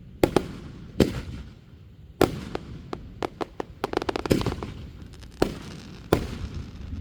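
Fireworks going off: a series of sharp bangs a second or so apart, with a quick run of crackling pops in the middle.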